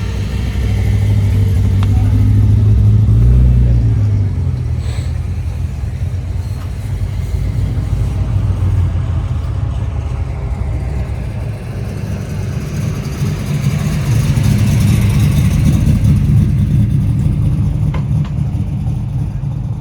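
Car engines with a deep, low rumble, swelling louder twice as they are revved or driven off.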